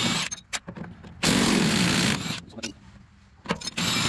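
Power tool, likely an impact wrench, run in short bursts on the truck's spring-mount bolts: a brief burst at the start, a longer one of about a second in the middle, and another near the end, with sharp metal clicks between.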